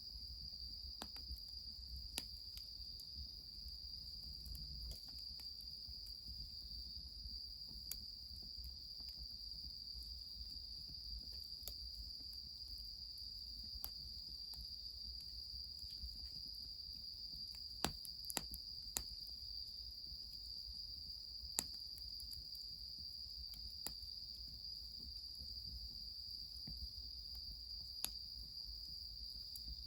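A steady high-pitched insect chorus, crickets by their sound, runs unbroken. Sharp crackles and pops from a burning wood fire break in irregularly, a few of them louder than the rest, over a low rumble.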